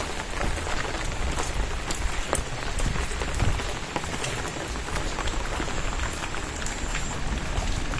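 Steady rain falling, with scattered close drops landing as sharp taps.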